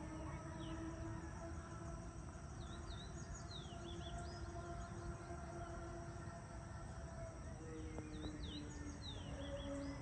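Outdoor dawn ambience: a small songbird gives a short phrase of quick, high up-and-down chirps twice, about three seconds in and again near the end, over a steady low hum and a constant thin high whine.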